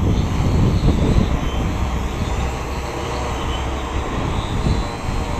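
Strong wind buffeting the microphone in an uneven low rumble, with the faint whir of a quadcopter's propellers above it.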